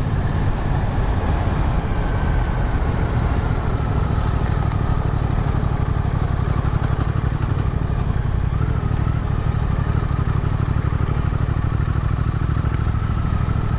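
Motorcycle engine running steadily while riding along a road, a continuous low rumble under a faint wavering whine, with wind and road noise.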